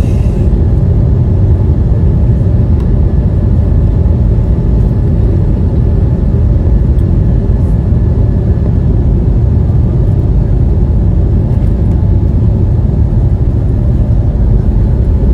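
Airliner engine and airframe noise heard from inside the passenger cabin: a loud, steady low rumble.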